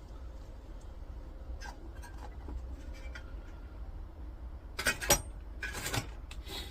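Small pieces of scrap metal clinking as they are handled, with a few light knocks and a louder clatter about five seconds in.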